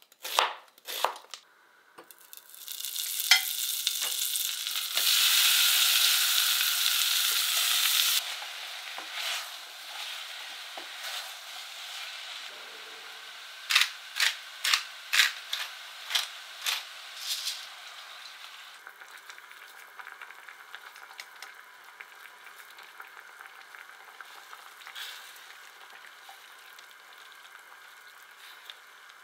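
A knife slicing onion on a cutting board in a few quick strokes, then sliced onion and turnip sizzling loudly as they fry in a stainless saucepan over a gas flame. The sizzle settles to a quieter steady hiss, and about halfway through there is a run of seven or so sharp clicks.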